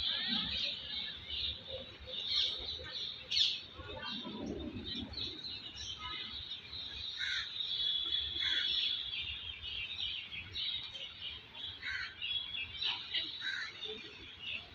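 Many small birds chirping at once, short high calls overlapping in a dense chorus.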